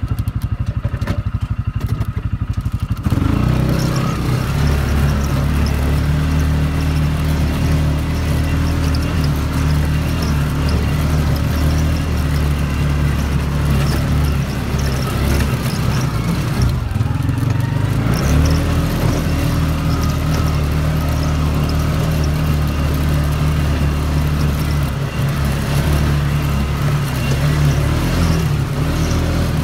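CFMOTO ATV engine: a low pulsing idle for about three seconds, then pulling away and running steadily as the machine rides along, with a brief easing of the throttle about halfway through.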